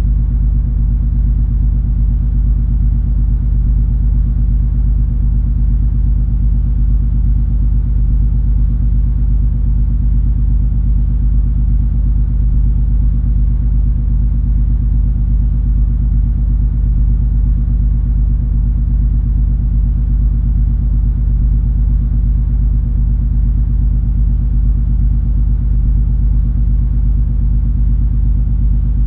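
Steady low rumble of the cruise ferry MS Color Magic under way, heard aboard: a deep engine drone with several steady low hums and little high sound, unchanging throughout.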